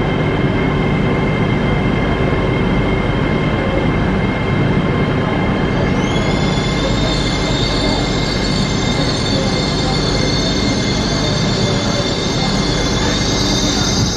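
LNER Class 801 Azuma electric multiple unit running through the station with a steady rumble and wheel-on-rail noise. About six seconds in, a high steady squeal sets in and holds.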